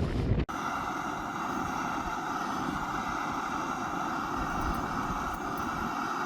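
Gusty wind noise cuts off abruptly about half a second in. A steady, unchanging motor whine with many overtones takes over.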